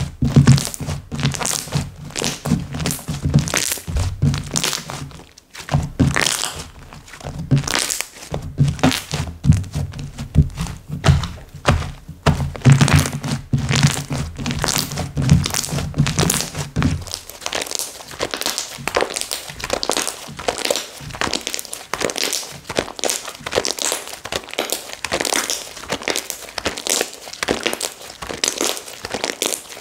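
Slime being squeezed, pressed and stretched by hand, giving a continuous run of small crackling clicks and pops. Dull low thunks sound along with it until a little past halfway, then stop.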